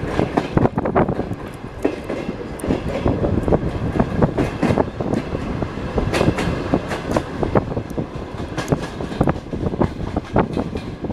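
Passenger train carriage running on the rails, heard from inside: a steady rumble with frequent, irregular knocks and rattles of the wheels striking the rails.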